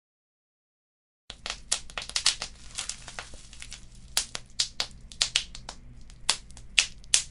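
Wood fire crackling, with sharp, irregular pops and snaps over the low rumble of the flames. It starts after about a second of dead silence.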